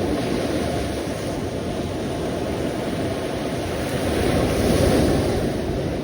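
Sea waves washing in, a continuous rush of surf that swells to its loudest about five seconds in and then eases back.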